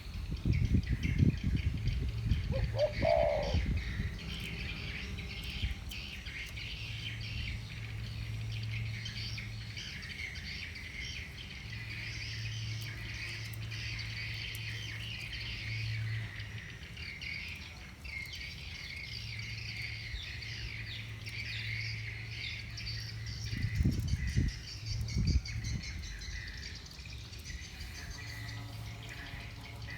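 Many small birds chirping and twittering steadily, with one brief louder call about three seconds in. Low thumps near the start and again past the middle.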